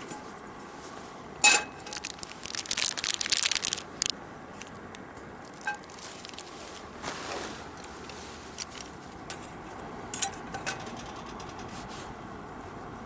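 Camp cooking handling sounds: a sharp ringing clink of metal on iron cookware, then a couple of seconds of crackling and rustling, with a few lighter clinks later.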